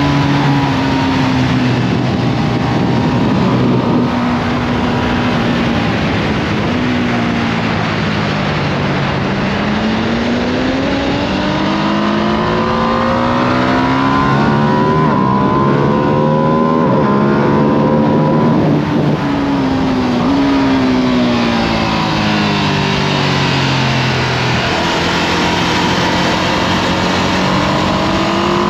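2025 Ducati Panigale V2S's V-twin engine on its stock exhaust, heard from onboard at track speed over steady wind rush. Its pitch climbs and drops repeatedly as the bike accelerates and slows, with steep climbs about halfway through and again near the end.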